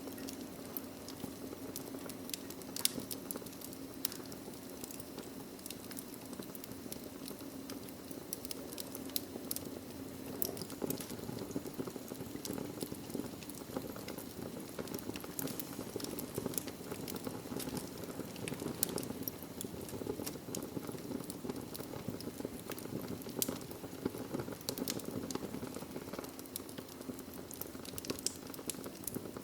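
Wood fire in a fireplace: burning logs crackling steadily over a low hiss and roar of the flames, with a few louder pops.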